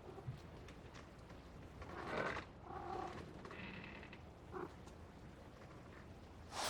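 A few short animal calls, separate and a second or so apart, some with a clear pitch, over a faint steady hiss.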